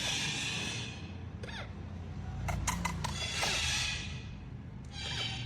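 A parrot calling in three short bursts of high, raspy squawks, with a few sharp clicks between the second and third bursts.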